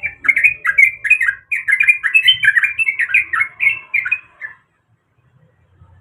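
Yellow-vented bulbul (trucuk) singing a rapid run of short, bending notes that stops about four and a half seconds in.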